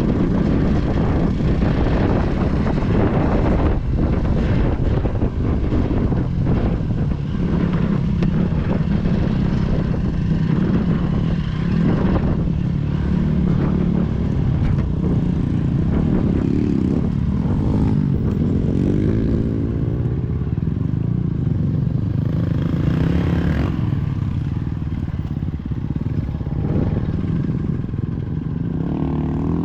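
A vehicle engine running under load as it drives over rough riverbed ground, its pitch rising and falling with the throttle, with knocks and rattles from the bumpy going in the first half.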